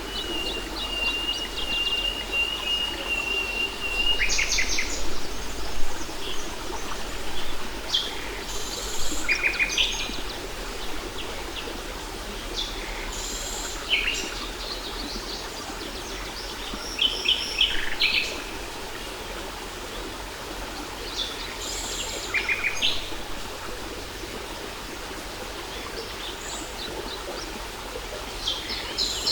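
Steady rushing of a waterfall, with forest birds singing and calling over it in scattered short chirps and trills. One bird holds a long, steady whistled note for about the first four seconds.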